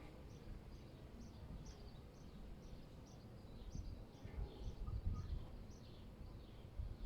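A small bird chirping over and over, short high chirps about two a second, over a low wind rumble that grows stronger near the middle.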